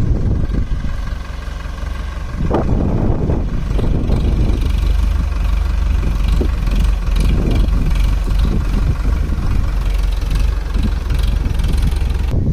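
Powertrac tractor's diesel engine running under the load of a fully loaded sugarcane trolley, a steady low drone that grows louder about two and a half seconds in.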